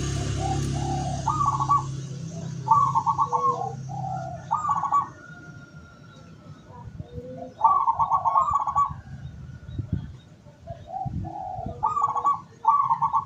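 Zebra dove (local perkutut) cooing: repeated short phrases of rapid pulsed notes, one after another with short gaps. A low steady hum in the background stops about two seconds in.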